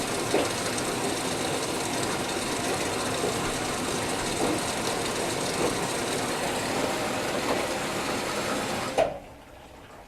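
Whirlpool Duet Sport front-load washer running a cycle: a steady mechanical whir with light knocks about once a second, which cuts off suddenly near the end.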